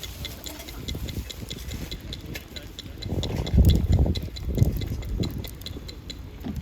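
Bonfire crackling with irregular sharp snaps, over a steady ticking of high, even chirps about four or five a second, with a few low rumbles in the middle.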